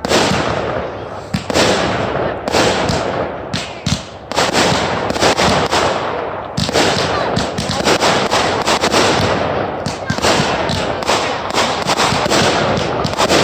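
Fireworks going off in rapid succession: a dense run of sharp bangs and crackles, each trailing into an echo.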